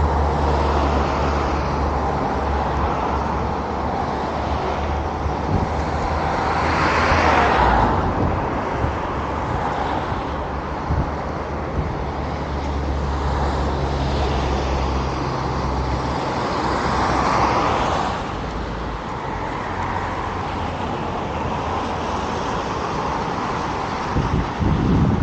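City road traffic: cars passing on a street, two louder passes about 7 and 17 seconds in, over the steady low hum of an engine running nearby. A low rumble comes in near the end.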